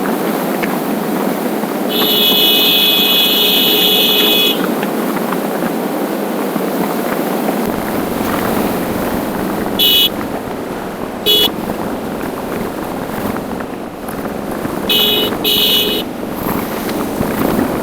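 Steady wind and road noise while riding a motorcycle in traffic. A vehicle horn sounds for about two and a half seconds near the start, then gives two short toots midway and two more near the end.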